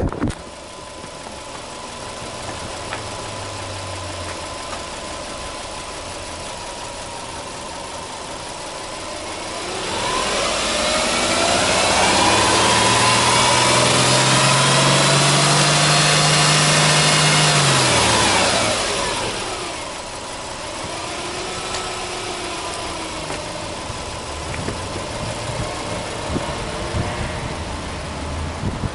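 Subaru Impreza 1.5i's 1.5-litre flat-four boxer engine idling, heard at the open engine bay. About ten seconds in it is revved up, held at high revs for several seconds, then let fall back to idle.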